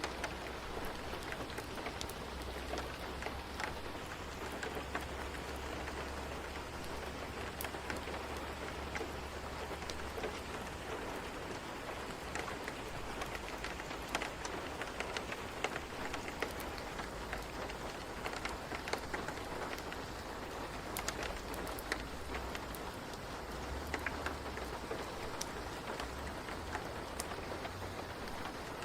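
Steady rain ambience: an even hiss of falling rain with many scattered sharp ticks of drops, over a constant low rumble.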